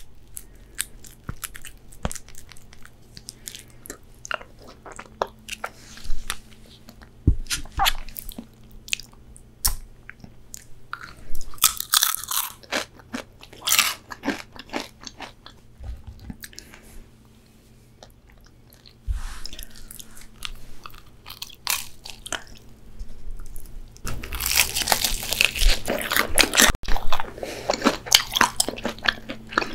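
Chewing and biting: soft mouth sounds at first, then crunchy bites into crispy fried chicken, densest and loudest near the end.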